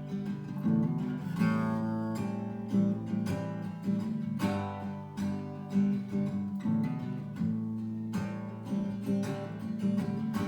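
Instrumental introduction to a folk-style song on acoustic guitar, chords strummed in a steady rhythm before the vocal comes in.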